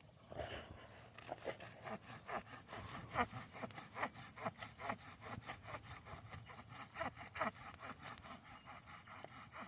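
Campfire of burning wood crackling and popping, with quick irregular snaps several times a second.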